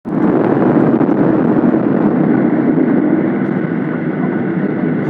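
Airliner cabin noise on arrival: loud, steady engine and airflow noise from inside the passenger cabin, easing slightly in the second half.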